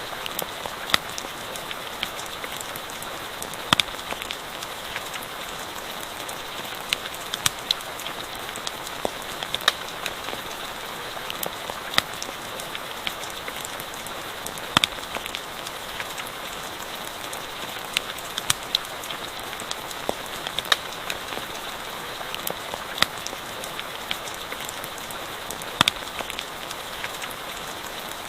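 Steady rain falling, with sharp, irregular pops and crackles from a campfire scattered throughout.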